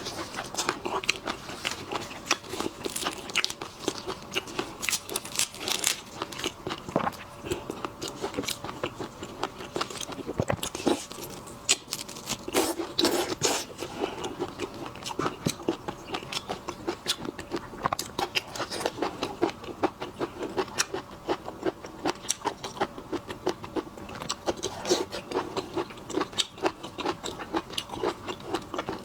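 Close-up eating sounds of seafood: biting, crunching and chewing, heard as a dense, irregular run of small clicks and crackles.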